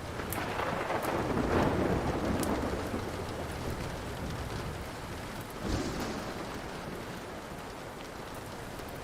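Steady rain with thunder: a rumble swells over the first couple of seconds, then a second, sharper clap comes a little past the middle. Scattered sharp crackles of a burning wood fire sound over the rain.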